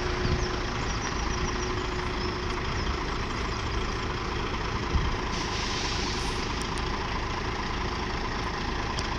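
Steady rumble of road vehicles' engines running at a level crossing, with one small knock about five seconds in.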